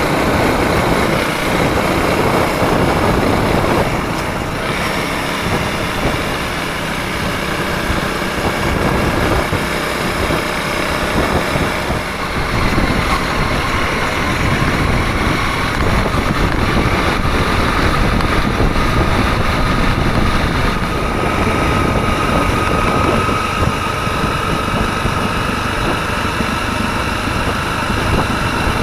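Exhaust of a Honda CRF300L's single-cylinder four-stroke engine running steadily while riding, its note slowly rising over the second half.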